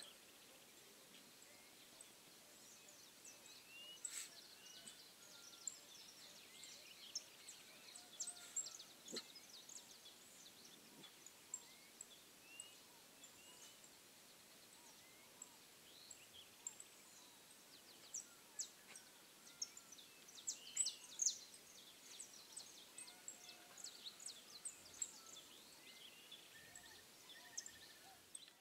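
Faint birdsong: many short, high chirps and calls come and go over a low background hiss, busiest a little past the middle.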